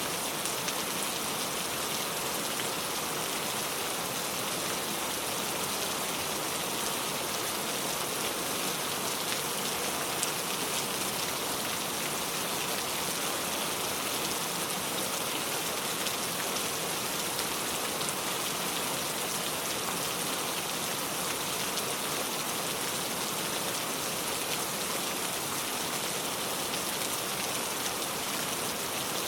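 Steady rain falling, a dense, even patter of many small drops with no break or change.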